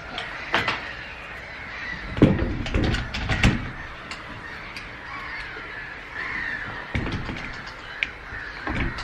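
Knocks and thuds of camera gear being handled on a wooden shelf, several short ones scattered through, while black-headed gulls call in the background, loudest a little past the middle.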